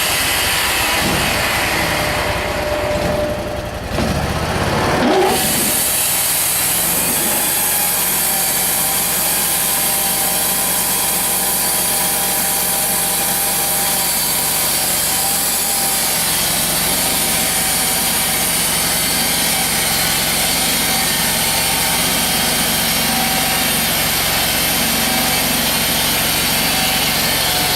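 Turner Mills portable band sawmill running: the engine dips and comes back up about four to five seconds in, then runs steadily under load as the band blade saws a board from the log.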